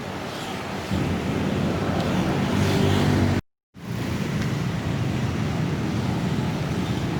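Industrial sewing machine running with a steady mechanical whirr. It grows louder about a second in and breaks off abruptly for a moment at a cut, then runs on steadily.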